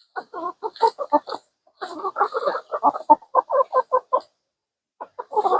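Hens clucking: a quick run of short calls, about five a second, with a brief pause about a second and a half in.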